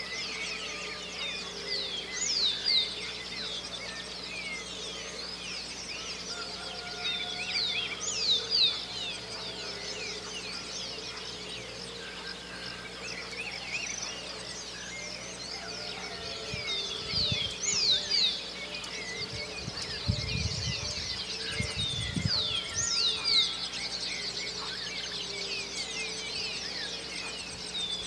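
Dawn chorus of many songbirds chirping and singing together. One loud song of quick falling whistles repeats every five or six seconds over the rest, and a few dull low thumps come about two-thirds of the way through.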